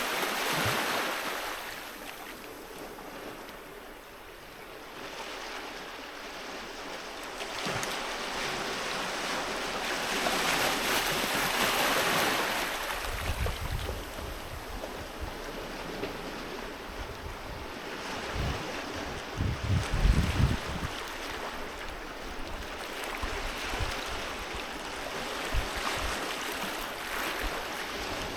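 Sea waves washing onto a beach, each surge swelling and falling back over several seconds. A few low thumps of wind buffeting the microphone come near the middle.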